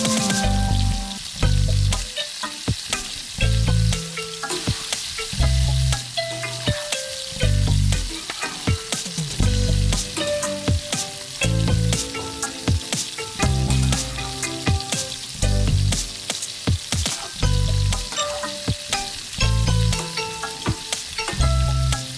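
Chicken curry sizzling in a pan, stirred with a utensil that clicks and scrapes against the pan. Background music with a slow, steady bass beat plays over it.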